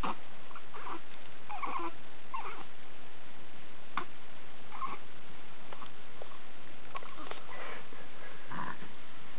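Little grunting noises: several short, soft grunts with pauses between them.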